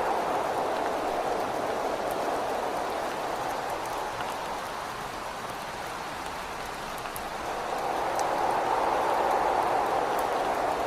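Steady rain with whistling wind. The wind eases in the middle and swells again near the end, and scattered raindrop ticks sound through it.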